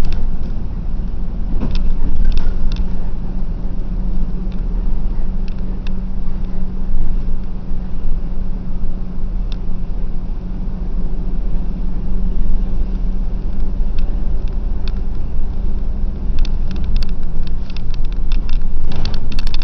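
Bus running on the road: a steady engine and road drone with a held low hum, and scattered clicks and rattles that grow thicker near the end.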